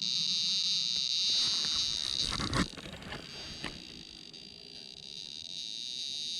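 A Tri-field meter giving off its steady, high-pitched electronic 'zinging' alert tone, the sign that it is picking up a field. There is a short rustle or knock about two and a half seconds in.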